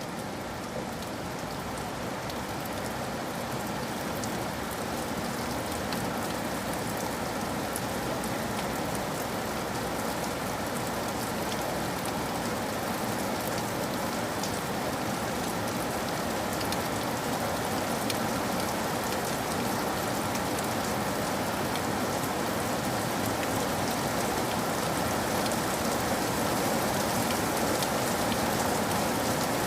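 Steady rain falling, a dense even hiss with many scattered sharp drop taps, growing slightly louder through the stretch.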